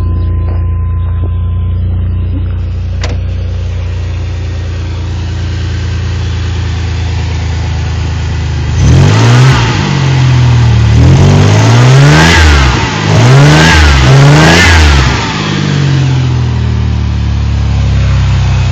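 1988 Camaro's 2.8 L multi-port fuel-injected V6 idling steadily, then revved up and back down several times from about nine seconds in before settling back to idle; it runs strong.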